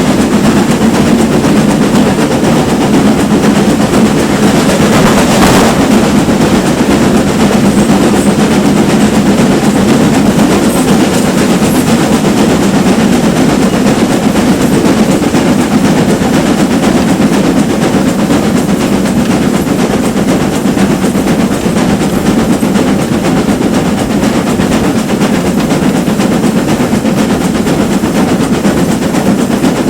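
Steam train running, dominated by the exhaust of a GWR Manor-class 4-6-0 steam locomotive and the running noise of the train, loud and steady. A brief sharper noise comes about five seconds in.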